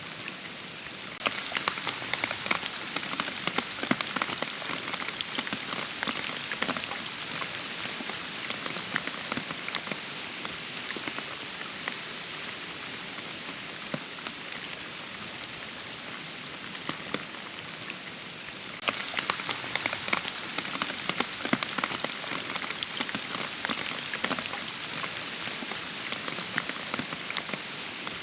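Steady rain falling, with many distinct drops striking close by. It gets heavier suddenly about a second in, eases a little midway, and picks up again about two-thirds of the way through.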